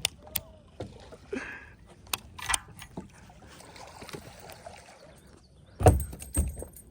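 Scattered clicks and knocks on a kayak, with two heavy thumps about six seconds in.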